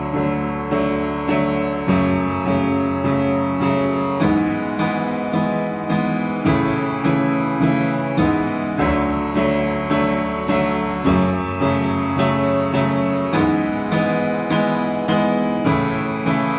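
Piano intro to a song: repeated chords struck at a slow, even pulse, each note ringing and fading.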